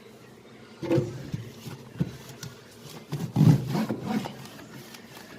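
Damp towel wiping and rubbing against the inside of a fridge, with a few knocks against its surfaces, in irregular strokes that start about a second in and die away after about four seconds.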